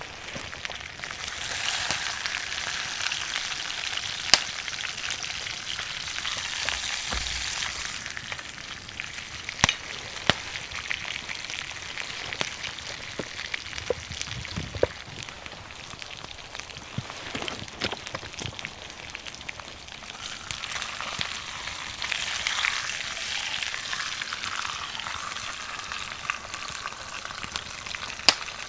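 Steak sizzling over a wood campfire, the hiss swelling twice, with sharp pops and crackles from the burning wood.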